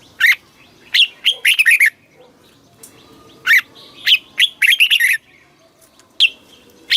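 Red-whiskered bulbul singing: short, quick phrases of clear whistled notes, repeated every second or two with brief pauses between.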